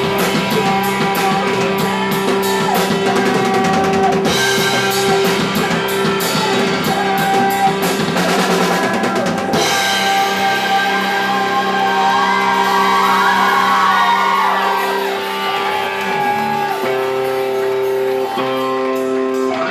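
Punk rock band playing live: electric guitar with bass and drum kit, with steady cymbal hits. About halfway through the cymbals drop out and a gliding, bending melody comes in. The drums build back near the end.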